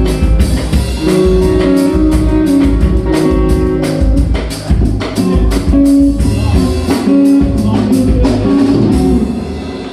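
Live rock band playing, with amplified guitar over a drum kit; the drums and the overall loudness drop away near the end.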